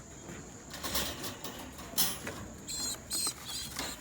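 Pigeons moving about in a loft: scuffling and wing flaps, with a sharper knock about two seconds in and a few short high squeaks about three seconds in.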